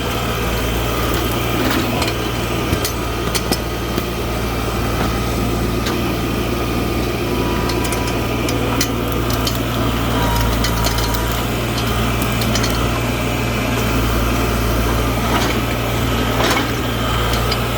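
New Holland LS180 skid steer's engine running steadily, with scattered clicks and knocks from the machine.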